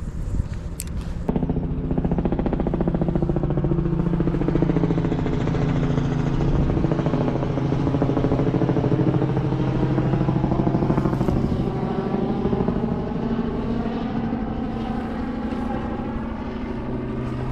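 A boat's outboard or inboard engine running steadily at a constant pitch as it passes, coming in suddenly about a second in.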